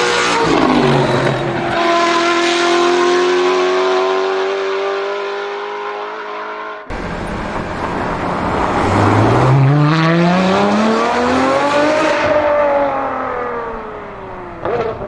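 Sports car engines at high revs. One engine note drops in pitch and then holds steady; after an abrupt cut, another engine climbs in pitch for about three seconds and then falls away.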